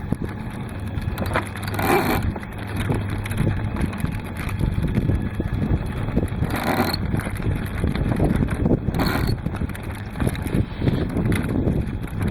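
Wind buffeting the microphone aboard a small sailboat under way: a steady low rumble with three brief louder gusts.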